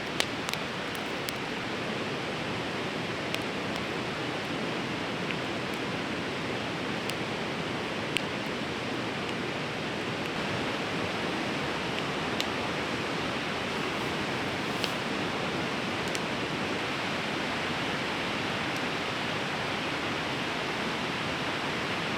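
Rushing of a fast-flowing, snowmelt-swollen river, a steady, very loud wash of water noise. A few faint sharp crackles from a wood campfire stand out here and there.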